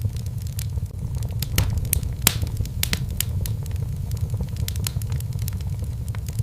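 Fireplace fire crackling: irregular sharp pops and snaps over a steady low rumble, with a louder pop a little past two seconds in.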